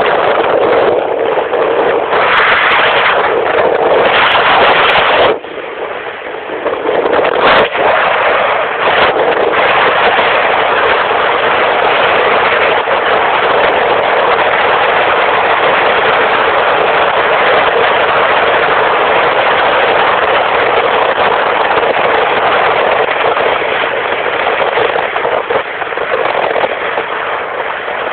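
Motorcycles running at speed: a loud, harsh, distorted rush of engine and road noise, steady apart from a brief drop in level about five seconds in.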